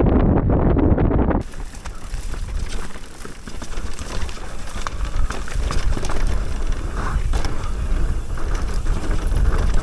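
Mountain bike riding down a dirt trail: wind on the microphone with tyre and trail noise, and scattered clicks and rattles from the bike. About a second and a half in, the sound changes abruptly.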